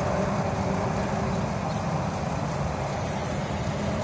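Steady, unbroken low rumble of vehicle noise.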